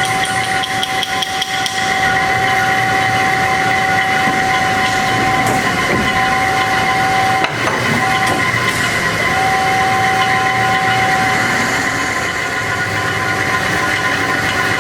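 HEM VT125HA-1 vertical tilt-frame band saw running, a steady mechanical whine made of several high steady tones, with one brief knock about halfway through.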